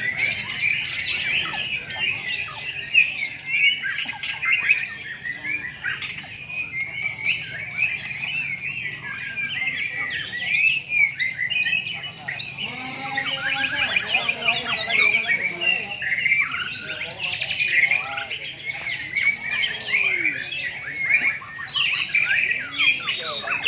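White-rumped shamas (murai batu) singing continuously. Rapid whistled and chattering phrases from several birds overlap without a break.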